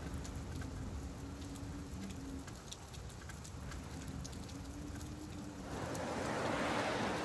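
Steady rain with the patter of scattered drops. Near the end a wave swells up, washes in on the shore and eases back.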